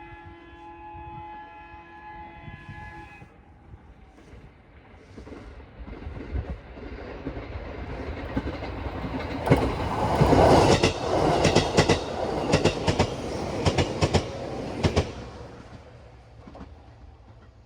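JR East 211-series electric train's horn sounding a steady chord for about three seconds, the warning blown at a whistle sign for an unguarded level crossing. The train then approaches and passes close by, with a rhythmic clickety-clack of wheels over rail joints, and fades away.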